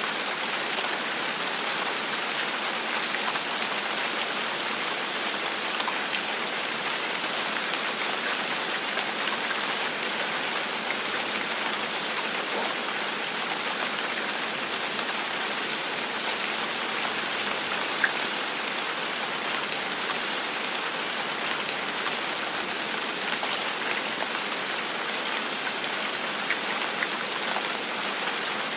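Steady rain falling, an even patter with scattered individual drop ticks, one sharper drop about two-thirds of the way through.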